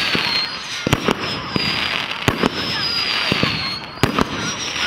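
Fireworks display: a rapid, irregular volley of bangs from bursting shells over a crackling hiss, with high whistling tones sliding slightly downward.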